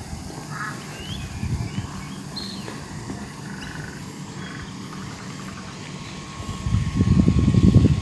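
Scattered short animal calls: a few chirps, short rising notes and a quick rattling call. Under them runs a low rumble that grows loud near the end.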